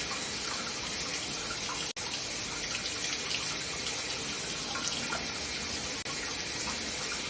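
Water running steadily from a tap, with a brief break about two seconds in.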